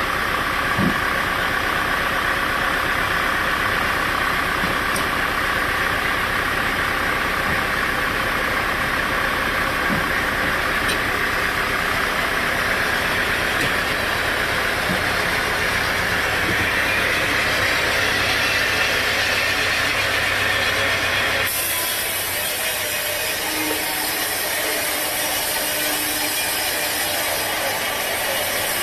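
Sawmill machinery running steadily with a low engine rumble. About three-quarters of the way through, the sound changes abruptly to a thinner, brighter hiss without the low rumble.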